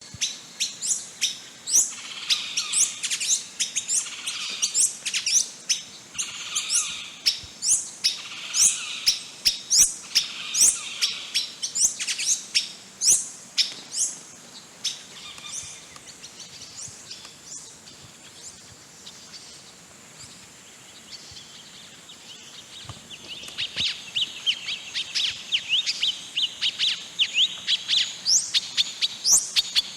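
Wild birds calling, a rapid series of short, sharp chirps that sweep downward in pitch. The calls thin out around the middle and pick up again toward the end.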